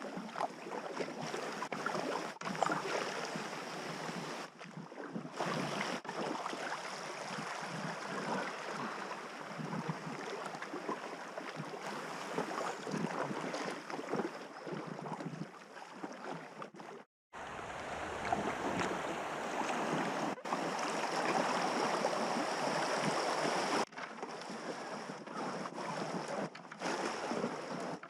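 River water rushing and splashing around a packraft running the current, with irregular splashes throughout. The sound cuts out briefly about 17 seconds in, then carries on a little louder.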